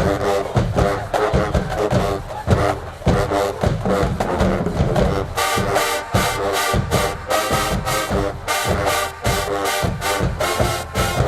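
HBCU marching band playing: drums keep a steady beat under brass chords, and about five seconds in the horns come in louder and fuller on a higher line.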